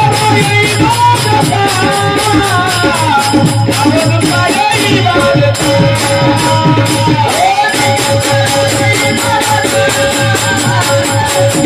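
Marathi devotional panchapadi: a voice singing a winding melody in a high register over a steady drone, with a brisk, even beat of jingling hand percussion.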